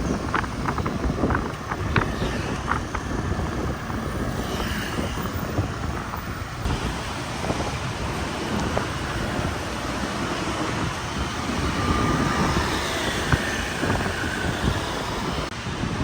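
Wind buffeting the microphone on a moving motorbike, over a steady rumble of street traffic.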